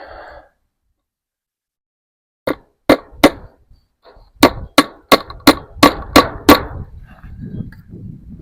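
Hammer blows: three spaced strikes, then a quicker run of seven, about three a second, typical of driving a staple into a fence post.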